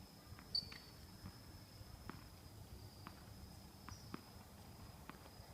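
Faint knocks of tennis play on a court, one sharper knock about half a second in and then lighter ones roughly a second apart, over a steady high-pitched tone.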